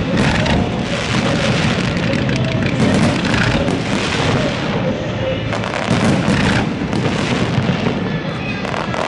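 Fireworks display at full intensity: a continuous dense barrage of overlapping bangs and crackling, without a pause.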